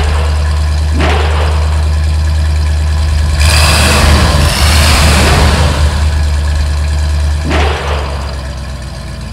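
Racing-car engine sound effects: a steady low engine drone, revving up twice, with a louder rushing burst about three and a half seconds in. The engine sound fades down near the end.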